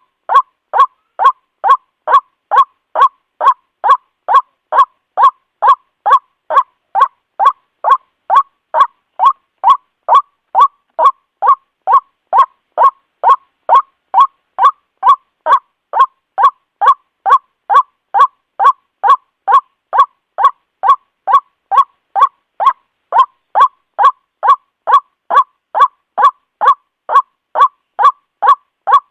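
White-breasted waterhen calling a monotonous series of short 'kwak' notes, about two a second, each call alike.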